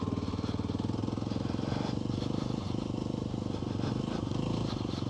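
Off-road motorbike engine running steadily as the bike is ridden at an even pace, its firing pulses close and regular.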